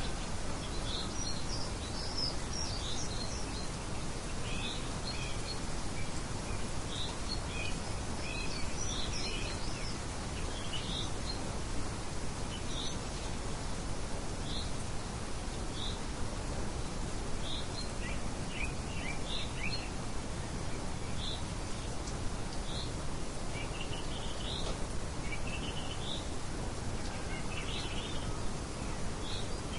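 Small birds chirping in short, high calls scattered throughout, over a steady hiss of light wind.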